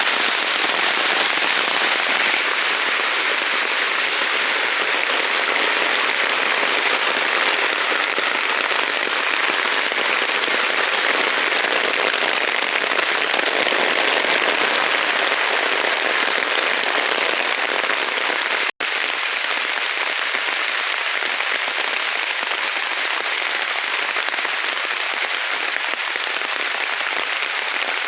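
Steady heavy rain falling in the forest, a dense even hiss of drops. It cuts out for an instant about two-thirds of the way through.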